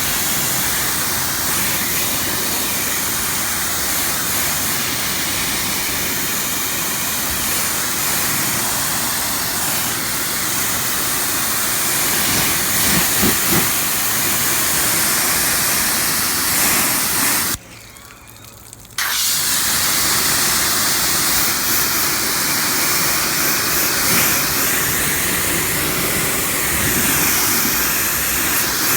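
Pressure washer spraying water steadily through a low-pressure nozzle, rinsing car-wash foam off a truck. The spray cuts off abruptly for about a second and a half about two-thirds of the way through, then starts again.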